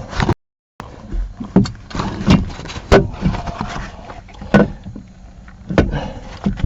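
Irregular knocks and clunks of metal engine parts being handled, about half a dozen, as an exhaust piece is worked down into place.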